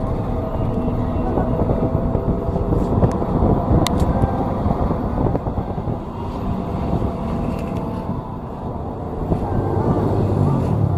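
Heavy diesel road-construction machinery running steadily, with a sharp click about four seconds in.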